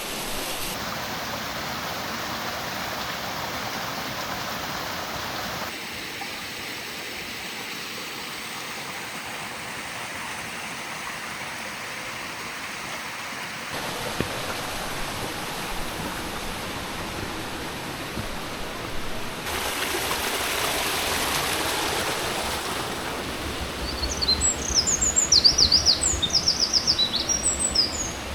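Steady rush of falling and flowing water from a mountain waterfall and stream, its tone changing abruptly a few times. Near the end a small bird sings a quick run of high chirps over it.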